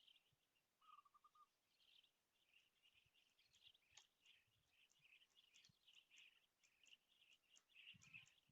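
Near silence with faint, high-pitched bird chirping and a short lower trill about a second in.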